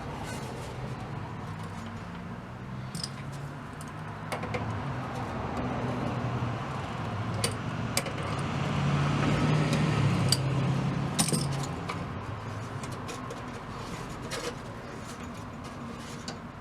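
Small metallic clicks and scrapes of a small screwdriver working at the set screw of a radio knob to get it off. A low drone swells and fades in the middle.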